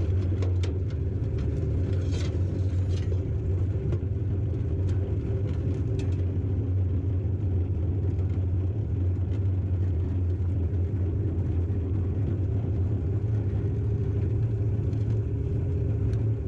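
Ford F700 truck's 370 V8 petrol engine running steadily at raised idle while powering the hydraulic drive for the spreader's web chain and spinner. A few light clicks and rattles come in the first few seconds.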